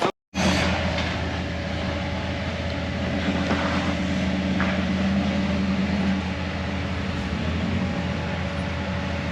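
Off-road vehicle engine running steadily at low revs, a low even drone that starts abruptly after a brief dropout near the start.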